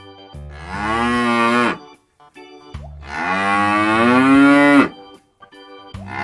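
Cow mooing: two long moos, the second longer and louder, and a third starting near the end, over a simple keyboard tune.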